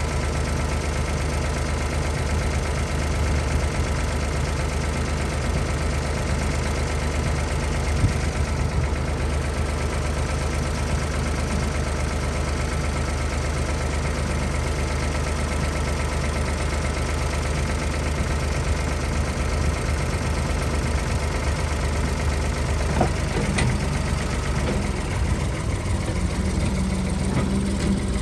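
Ford 555 backhoe loader's engine running steadily at a low, even speed, with a single sharp knock about 8 seconds in. Near the end a deeper, steady tone joins the drone.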